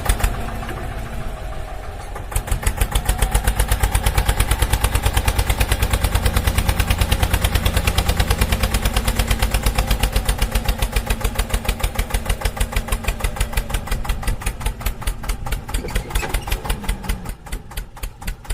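Tractor-style diesel engine running with a rapid, even chug. It is quieter for the first couple of seconds, then louder and steady, easing off near the end.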